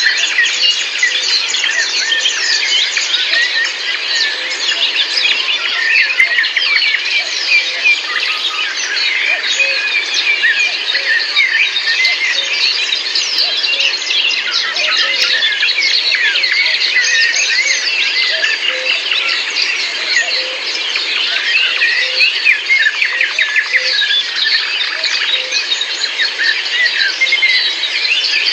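A dense chorus of many birds chirping and singing at once, short overlapping calls running on without a break.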